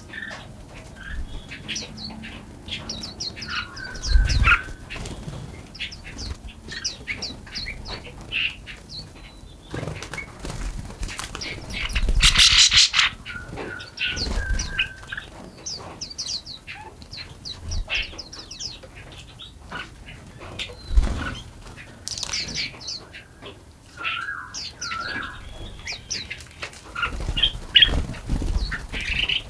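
Several small songbirds chirping and singing in quick high notes, with a few short whistled phrases among them. Now and then wings flutter close by, the loudest burst about twelve seconds in.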